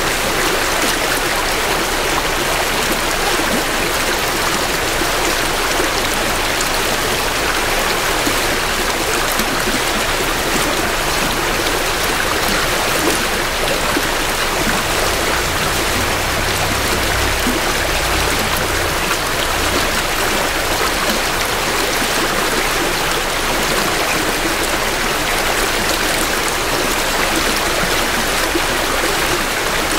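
A small creek running with spring runoff: a steady rush of flowing water over stones, even throughout. A faint low rumble rises under it for a few seconds around the middle.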